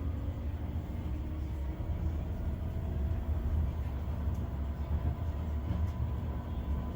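Tram running along a street track: a steady low rumble with a faint, thin whine held above it.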